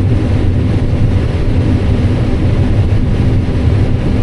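Combine harvester running steadily while harvesting corn: an even, loud, low machine drone with a faint steady hum over it.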